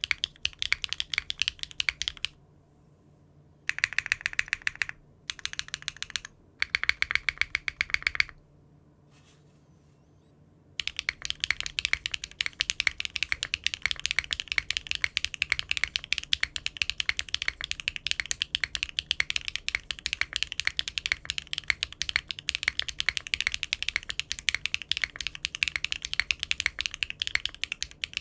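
Typing on a mechanical keyboard fitted with Cherry-profile keycaps: quick runs of key clacks. The typing stops twice, for about a second near the start and for about two and a half seconds in the middle, then runs on steadily.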